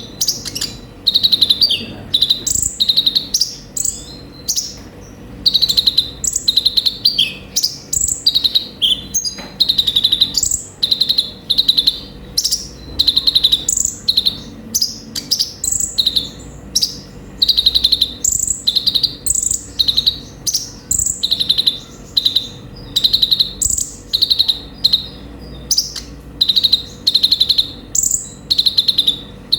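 Kolibri ninja (konin) sunbird song: short, high, rapid trilled chirping phrases repeated about twice a second without pause.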